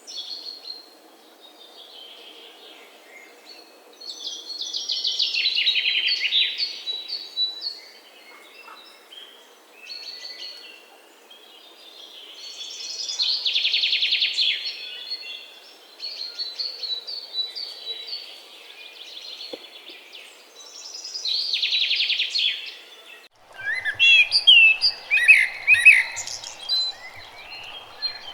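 Songbirds singing: a rapid trilled song phrase comes back about every eight seconds, with softer calls between. Near the end the sound breaks off abruptly and a busier chorus of sliding chirps takes over.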